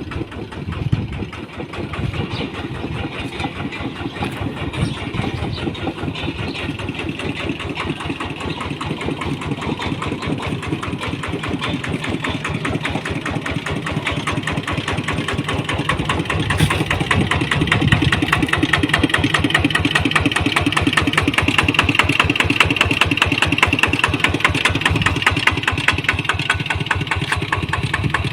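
Kubota ET95 single-cylinder diesel engine on a walking tractor, running steadily with a rapid, even firing beat; it grows louder about two-thirds of the way through.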